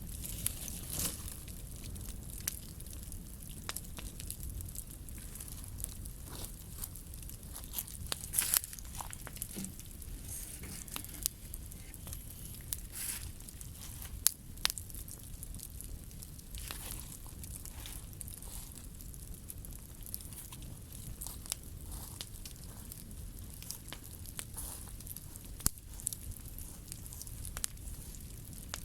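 Bonfire of scrap wood burning, crackling with irregular sharp pops, a few louder ones, over a low steady rush of flame.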